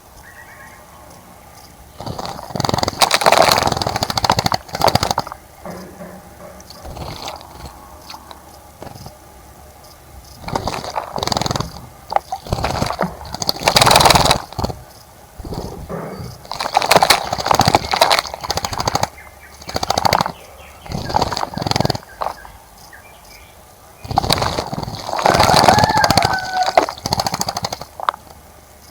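Birds splashing in a bird bath: repeated bursts of splashing and wing-fluttering, each lasting one to a few seconds, with quiet gaps between. A bird call rises and falls near the end.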